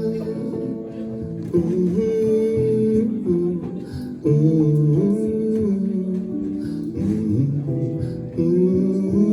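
Guitar playing the instrumental close of a song, held chords changing every second or two.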